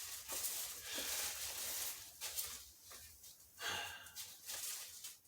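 Cardboard and plastic packaging rustling as it is handled, in irregular scrapes and crinkles.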